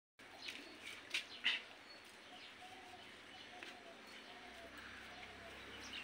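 Quiet bird sounds outdoors: a few short, sharp chirps in the first second and a half, then faint soft calls repeating every half second or so.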